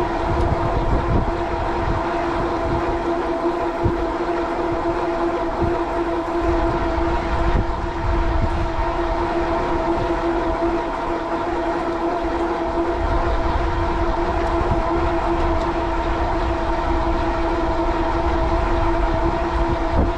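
Steady high whine from an e-bike's geared Bafang rear hub motor under power at constant cruising speed. Wind buffets the microphone with an uneven low rumble throughout.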